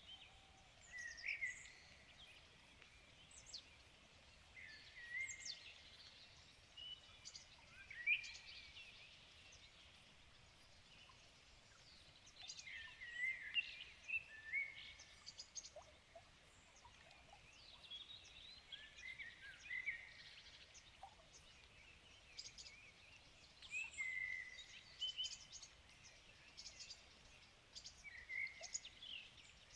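Several wild birds singing and calling at once in a forest chorus, a stream of short chirps, whistles and quick rising and falling notes, faint over a low background hiss.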